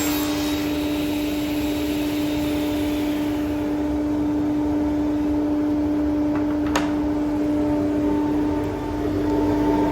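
A machine running with a steady hum. A hiss fades away over the first few seconds, and there is a single click about seven seconds in.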